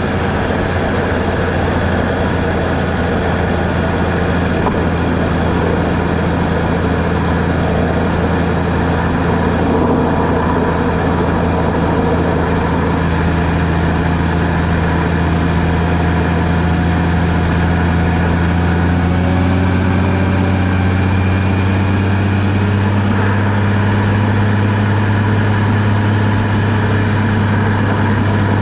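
A vehicle's engine running steadily with road noise while driving, its low hum rising slightly in pitch about two-thirds of the way through.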